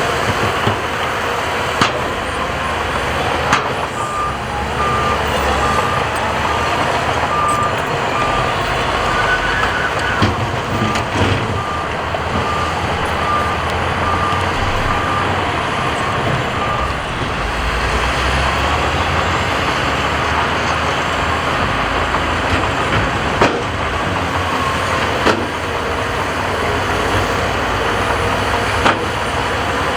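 Heavy diesel earthmoving machinery running steadily, with a reversing alarm beeping evenly for about a dozen seconds in the first half and a few sharp knocks scattered through.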